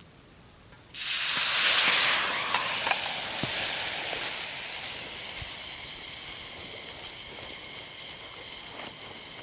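A sudden loud sizzling hiss starts about a second in and slowly dies down, with a few faint crackles: something sizzling on a very hot surface.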